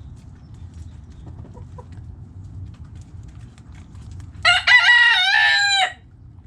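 Rooster crowing once, a single loud call of about a second and a half that starts about four and a half seconds in, over a low steady background rumble.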